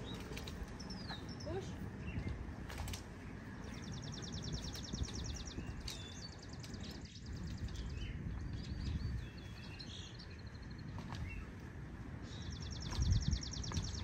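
Small songbirds chirping, with two rapid high trills, one about three and a half seconds in and another near the end. A steady low wind rumble buffets the microphone underneath, gusting louder shortly before the end.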